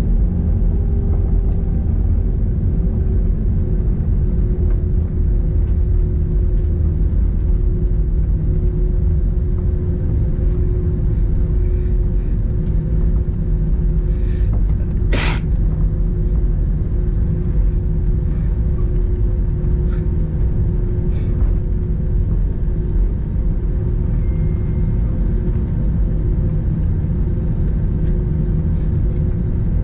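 Airbus A321 heard from inside the cabin: steady low rumble of the engines and airframe with a steady engine tone, and one sharp click a little past halfway.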